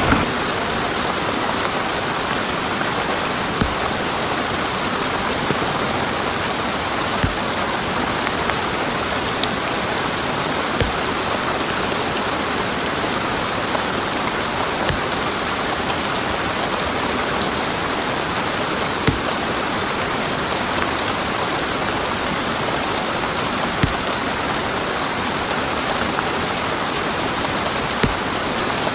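Heavy rain falling steadily, with a few louder, sharp drop impacts every few seconds.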